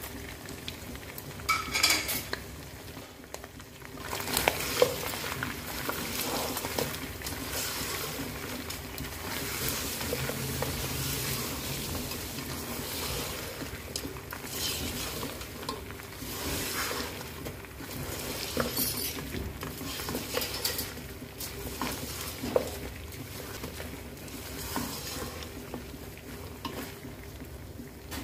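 Mutton pieces and whole spices frying in hot oil in a non-stick wok, sizzling steadily while a spatula stirs them, with clicks and scrapes of the spatula against the pan.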